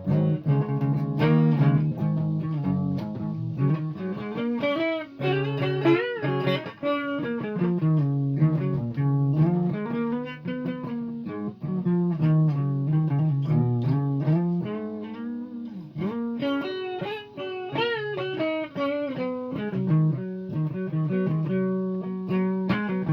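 Solo guitar playing a melody note by note, many notes bent or slid up and down in pitch.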